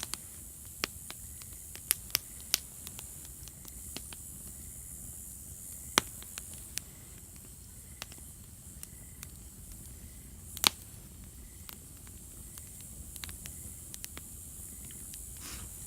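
Wood campfire burning briskly with a steady hiss and irregular sharp crackles and pops; the loudest pops come about six and about ten and a half seconds in.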